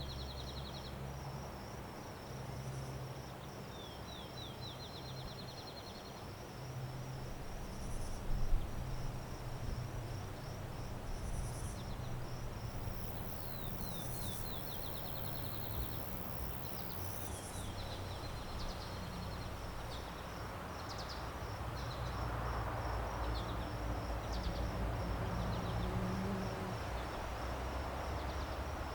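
Outdoor nature ambience: insects, cricket-like, chirring in a steady high, fast pulse, with short rapid trills coming in now and then. Underneath is a soft rush and a low steady rumble.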